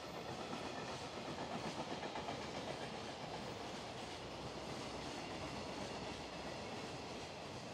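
Freight train of container flatcars rolling past, its wheels running steadily over the rails, a little louder in the first couple of seconds.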